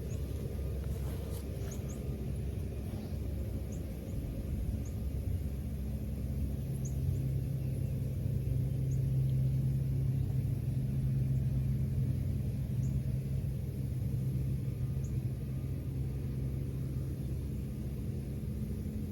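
Steady low mechanical rumble with a hum that swells through the middle and then eases, with faint short high chirps now and then.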